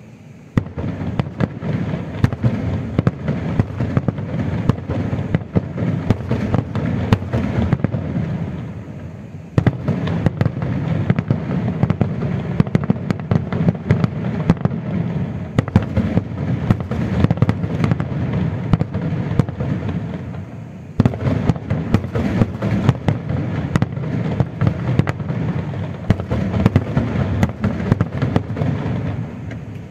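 Fireworks display going off in a rapid, unbroken run of bangs and crackles over a low rumble, starting about half a second in. Two brief lulls come about a third and two-thirds of the way through, and the bursts stop just before the end.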